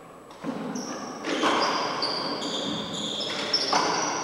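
A handball rally on a four-wall court: the ball smacking off the walls and floor several times, with high-pitched sneaker squeals.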